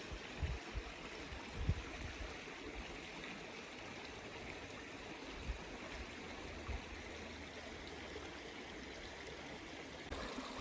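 Mountain creek flowing: a steady rush of running water, with a few soft low bumps.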